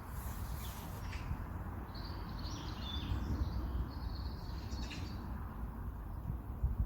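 Small birds chirping with short, high calls clustered in the middle of the stretch, over a steady low background rumble.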